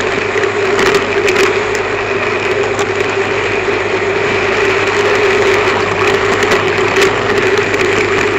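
N gauge model train with an onboard camera car running along the track: a steady whine and hum with a noisy rattle, broken by scattered sharp clicks.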